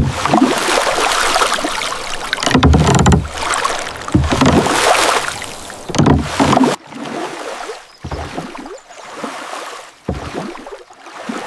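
A small boat being rowed across water: water splashing and sloshing, with a heavier surge of water about every two seconds as each rowing stroke pulls through.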